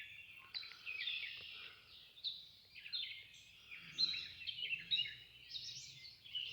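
Birds singing and chirping, several overlapping songs with short repeated phrases, over a faint low background hum.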